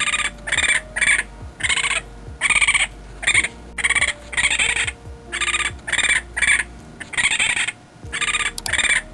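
An animal calling over and over in short, harsh calls, about two a second.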